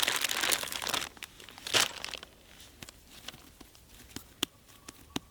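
Crinkling, tearing rustle as bread dough is pulled apart and handled, loudest in the first second and again briefly about two seconds in, then a few light clicks.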